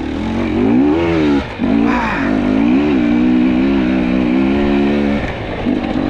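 Two-stroke fuel-injected enduro dirt bike engine revving hard on a steep climb. Its pitch swings up and down with the throttle, holds steady for a couple of seconds, then eases off about five seconds in.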